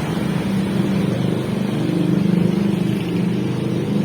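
A motor vehicle engine running steadily at an even, unchanging pitch, as at idle.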